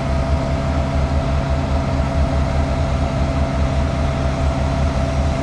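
Idling diesel locomotive engine, a steady low hum with a faint constant whine above it.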